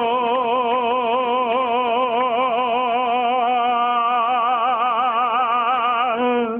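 A voice holding one long, loud sung note with an even vibrato, opera-like, cut off suddenly near the end.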